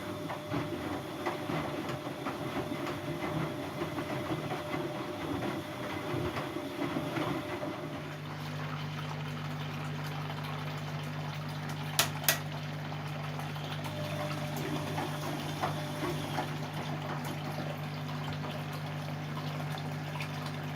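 Siemens Siwamat C10 washing machine running with water: for about the first eight seconds a fluctuating rush of water, then a steady low hum sets in with water still moving. Two sharp clicks come a little after halfway.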